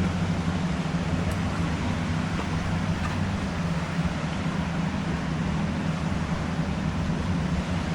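A steady engine drone with a low hum, over a constant wash of noise.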